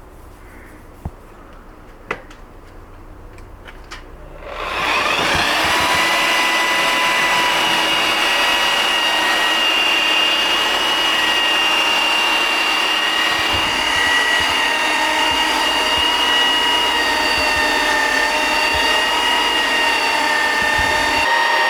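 A few light clicks, then about four seconds in an electric power tool switches on and runs steadily at full speed with a constant high whine.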